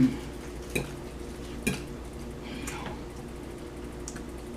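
Cutlery clinking against a plate twice, about a second apart, while eating spaghetti.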